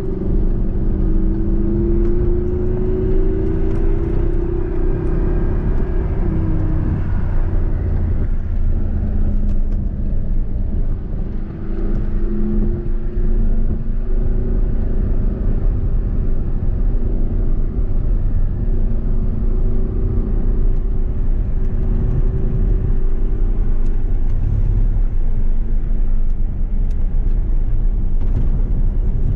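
Audi R8's V10 engine heard from inside the cabin under way on a track: the revs climb over the first few seconds, drop about six seconds in, then hold fairly steady with small rises and falls, over a low rumble.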